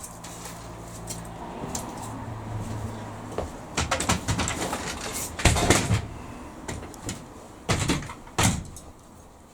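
Knocks and bumps of a piece of timber being put up into the ceiling of a van body: a run of sharp knocks around the middle and two more strong knocks near the end.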